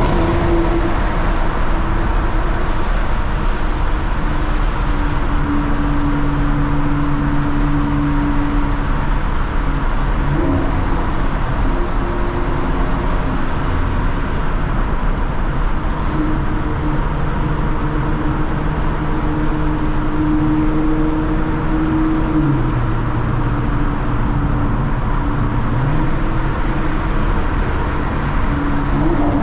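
Mercedes-AMG C43 engine and exhaust under steady cruising, over constant road and tyre rumble. Engine pitch holds level for long stretches, briefly shifts about ten seconds in, drops and climbs back about three quarters of the way through, and rises again at the end.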